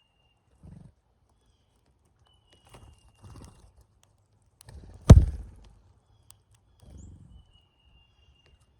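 Two thin, slightly falling high whistles from brown-headed cowbirds at a bird feeder, with a few soft low bumps. About five seconds in there is one loud, sharp thump.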